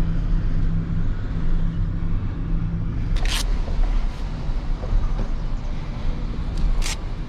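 Truck engine running at low revs. The steady drone eases off about three seconds in, and short hisses come about three seconds in and again near the end.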